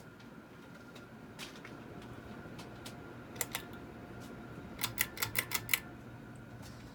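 Hampton Bay Huntington II ceiling fan motor humming steadily, with a couple of sharp clicks about three and a half seconds in and a quick run of about six clicks a second later.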